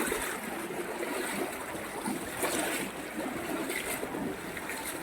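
Rainwater flowing fast like a river, a steady rushing of floodwater.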